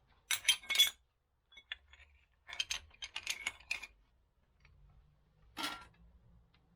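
Small metal motorcycle fork parts being handled, clinking and clicking in quick clusters: one near the start and one around the middle, then a single short clatter near the end.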